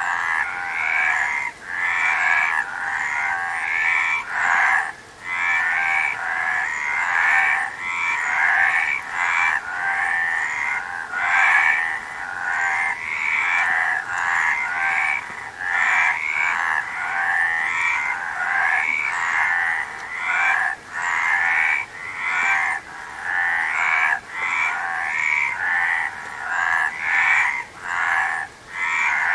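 A chorus of frogs croaking, many overlapping trilled calls repeating about once a second with only brief gaps between them.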